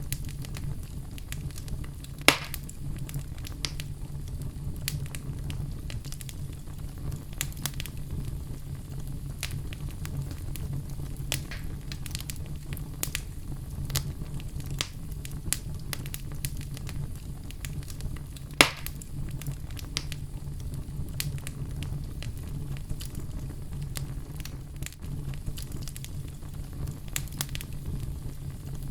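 Oak logs burning in a fireplace: a steady low rumble of flames with scattered sharp crackles, and two loud pops, one about two seconds in and one a little past the middle.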